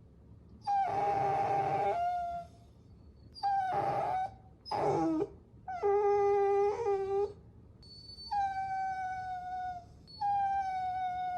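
Puppy whining: about six high, drawn-out whines with short gaps between them. Several slide down in pitch at the end, and one near the middle drops steeply.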